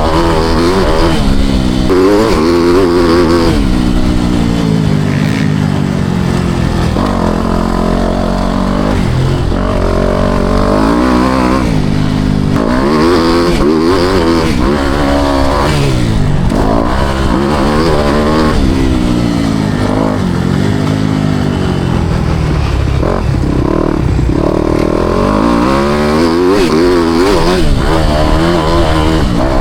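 Four-stroke motocross bike engine being ridden hard, revving up and dropping back again and again as the rider works the throttle and gears, its pitch rising and falling every few seconds.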